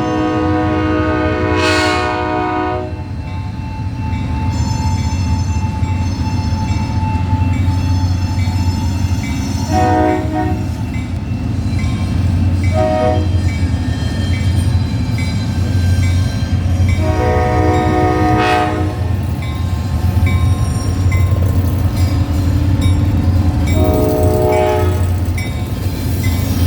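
Diesel locomotive air horn sounding a series of long and short blasts over the steady low rumble of the passing train.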